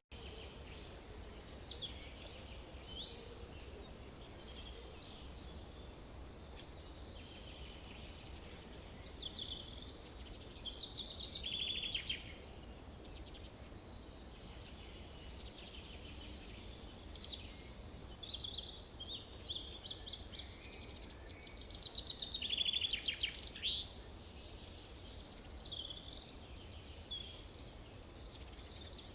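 Several birds singing and calling in a forest, many short chirps and whistles overlapping, with two louder rapid trills that fall in pitch, one about ten seconds in and one about twenty-two seconds in, over a faint low steady rumble.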